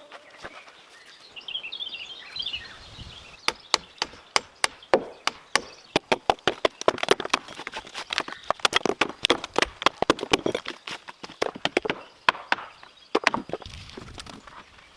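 Wood being chopped with a bladed hand tool: a long run of sharp, irregular blows, a few a second, starting a few seconds in and stopping shortly before the end.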